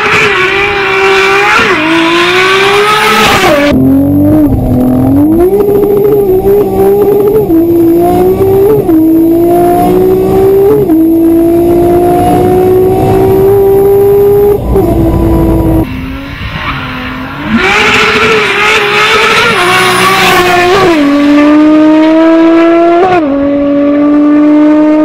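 Audi S3's turbocharged four-cylinder engine under full-throttle acceleration, its pitch climbing through each gear and dropping back at each upshift. After a brief lull about two-thirds of the way in, it pulls hard through the gears once more.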